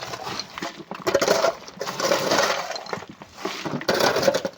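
Loose stones and coral rubble clattering in repeated bursts about a second apart, as rock is loaded into a truck.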